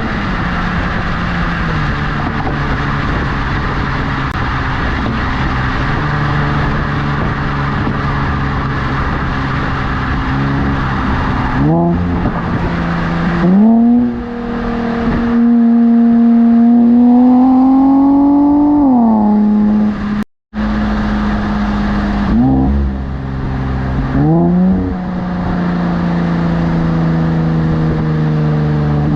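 Infiniti Q50 Red Sport 400's twin-turbo V6 running through an aftermarket Motordyne cat-back exhaust and AMS lower downpipes. It holds steady revs, and several times the pitch sweeps up quickly and settles at a higher steady note. The sound cuts out briefly about two-thirds of the way through.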